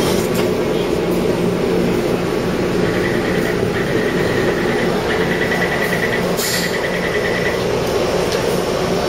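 Taipei Metro C301 train running with a steady rumble and hum. A faint, rapidly pulsing high tone comes and goes for a few seconds near the middle.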